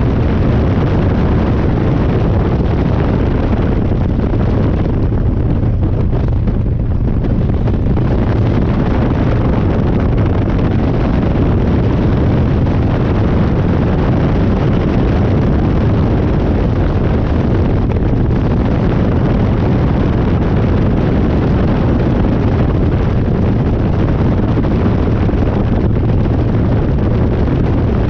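Harley-Davidson Dyna's V-twin engine running under way on a ride, its exhaust note mixed with wind rushing over the microphone. The high part of the roar eases off briefly about five to seven seconds in.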